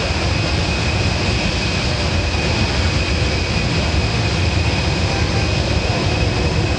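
Boeing C-17 Globemaster III's four turbofan engines running, a steady high whine over a loud, even rumble.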